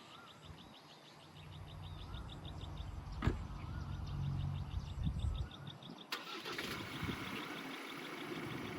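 A vehicle engine running with a low steady hum, under insects trilling in a rapid pulsing rhythm. A sharp knock comes about three seconds in. The hum fades about five and a half seconds in, and near six seconds the sound changes abruptly to a brighter hiss with a steady high whine.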